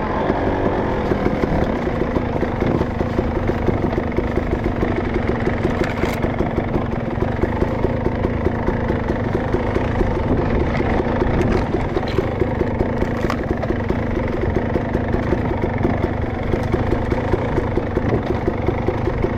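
Dirt bike engine running steadily with a fast, even pulse, plus a few sharp clicks.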